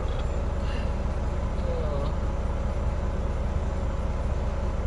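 Steady low drone of a Volvo VNL 860 semi truck heard from inside the cab while driving: engine and road noise running evenly.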